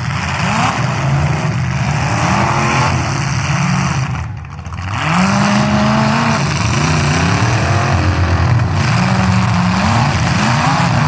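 Engines of several full-size demolition derby cars revving hard, overlapping and rising and falling in pitch as they accelerate. The revving dips briefly about four seconds in, then picks up again.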